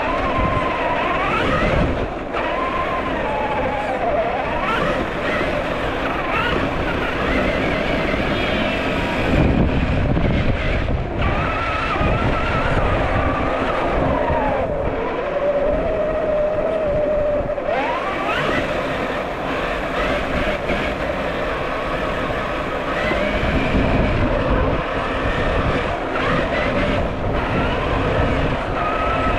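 Electric drivetrain of a Traxxas TRX4 1/10-scale RC crawler whining, its pitch rising and falling again and again as the throttle is worked, over a steady rough noise.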